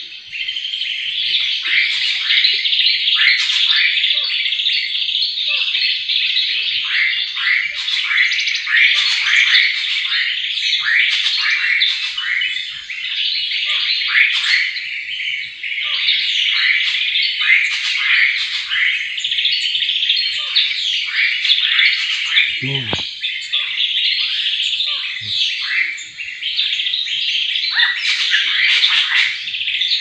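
Small songbirds chirping and twittering in a dense, unbroken chorus of quick, high calls overlapping one another.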